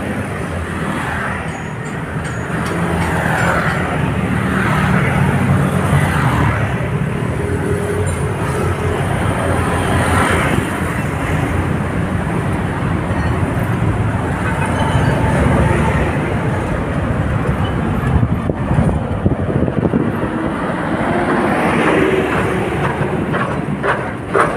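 Busy road traffic, with cars and motorbikes passing in a steady stream and their engines and tyres humming. A few short clicks come near the end.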